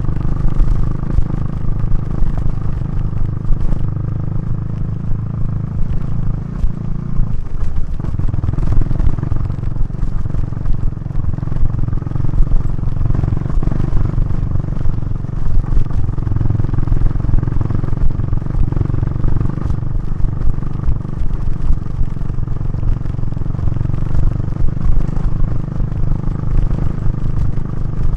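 KTM 390 Duke's single-cylinder engine and Remus exhaust running under way. The engine note changes about seven seconds in, then holds steady.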